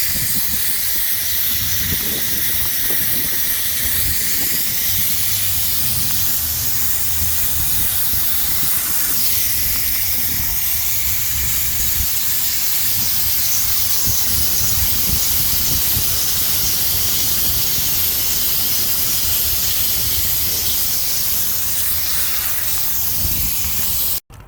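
Steady hiss of a sprayer spraying cleaner onto an HVAC unit's coil, with a low rumble underneath; it cuts off abruptly just before the end.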